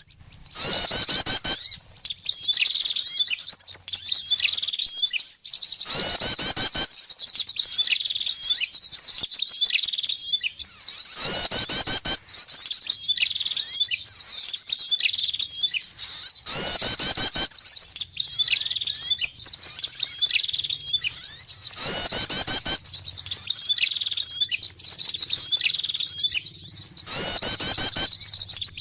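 Bird-lure recording of prenjak (prinia) and other small songbird calls. Rapid high chirping runs on without a pause, and a loud call sweeping down in pitch comes in about every five seconds, as in a looped lure track.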